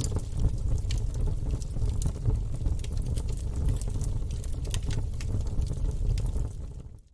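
Log fire burning in a fireplace: a steady low rumble of flame with frequent sharp crackles and pops from the burning wood. The sound fades out to silence right at the end.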